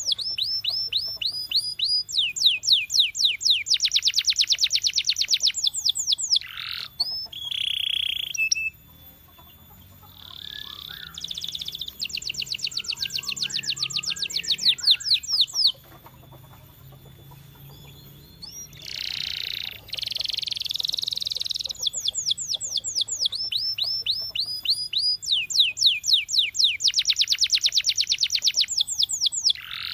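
Canary singing: long trills of rapidly repeated high sweeping notes, in several phrases with two short pauses in the middle.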